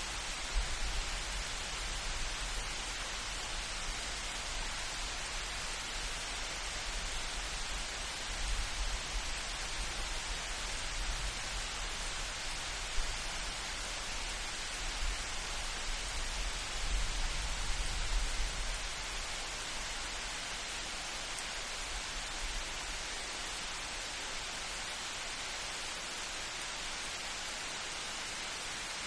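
Steady hiss of light rain falling in a forest, with a deep, low rumble of distant thunder that swells and fades in the first two-thirds and dies away after about twenty seconds.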